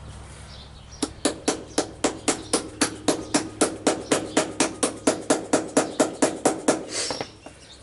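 Hammer tapping a steel lacing pin through the hinged connector of a round-baler belt: a steady run of light, even taps, about four a second, starting about a second in and stopping near the end. The taps are kept light so as not to bend the pin.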